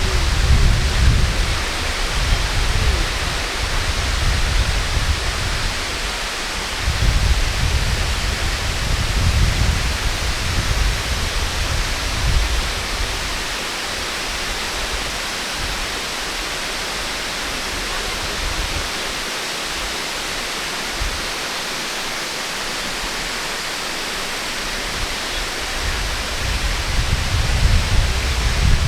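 Waterfall rushing steadily, with wind buffeting the microphone in low gusts during the first twelve seconds and again near the end.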